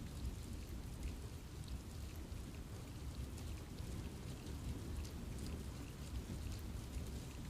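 Steady rain falling in a forest, with a low rumble underneath and many scattered individual drops pattering on leaves.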